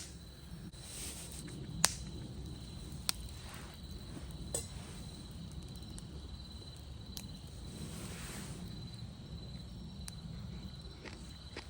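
Wood campfire burning quietly with a few sharp isolated pops and crackles, over a steady high-pitched insect trill and a low outdoor rumble.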